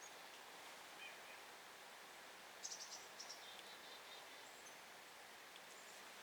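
Faint outdoor background hiss with a few faint high chirps, about a second in and again around three seconds in.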